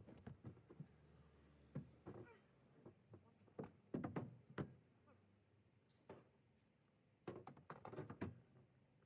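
Scattered light knocks, clicks and thunks of household objects being handled and set down, in three short clusters.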